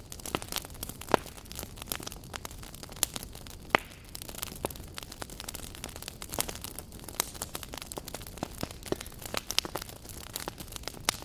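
Wood fire burning in a fireplace: a steady low rumble and hiss with irregular sharp crackles and pops, a few of them loud, such as one a little over a second in and another just under four seconds in.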